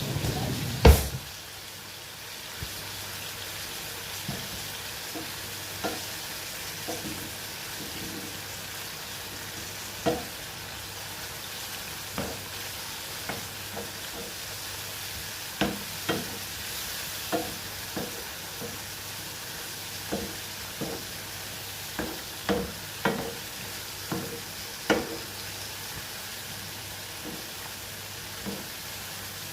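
Mushrooms frying in oil in a pan with a steady sizzle, and a utensil clacking against the pan now and then as they are stirred; a loud knock about a second in.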